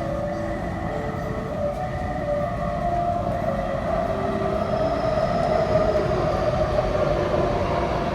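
Taipei Metro C371-series train entering an underground station, its running and wheel noise on the rails growing louder as it pulls in. Short musical notes from the station's train-arrival melody trail off in the first second.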